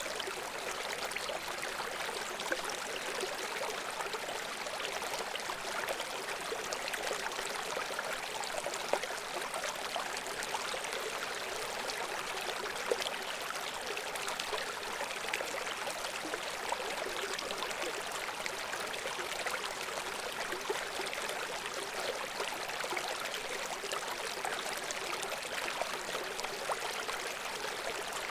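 A shallow brook babbling and trickling over stones, a steady rush of water with many small splashes and gurgles through it.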